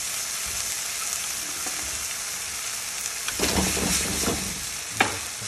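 Chicken thighs sizzling in a wok with a little chicken stock just added: a steady frying hiss. About three and a half seconds in, the food is stirred with a second of scraping and knocking, and a single sharp knock comes near the end.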